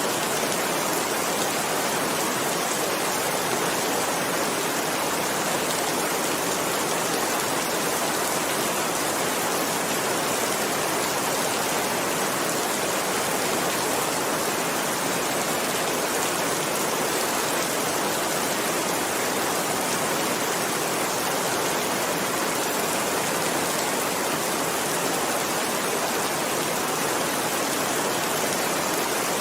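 Heavy rain falling steadily: an even, unbroken hiss with no thunder or music.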